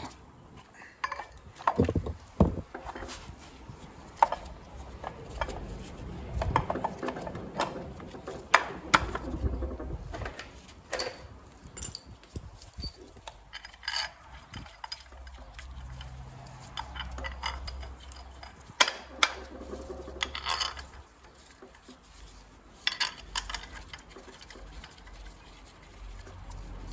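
Irregular metal clinks and knocks of tools and parts as an engine mount bracket is fitted back onto the engine.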